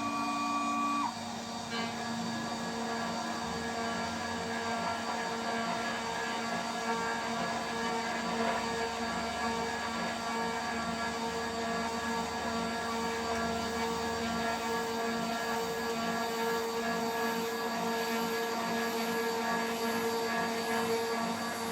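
DIY CNC router's spindle running steadily at about 14,000 RPM with a 3 mm three-flute end mill, as the machine mills a part. It is a steady whine; a second, higher set of tones cuts off about a second in.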